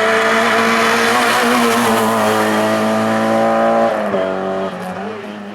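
Hill-climb racing car engine running hard at high revs, its pitch holding steady, then dropping in pitch and loudness about four seconds in.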